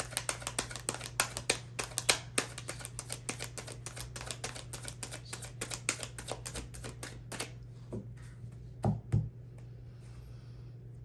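A deck of tarot cards being shuffled by hand: quick, crisp card clicks, several a second, that stop about seven and a half seconds in, followed by a couple of duller knocks as the deck is tapped or set down. A low steady hum runs underneath.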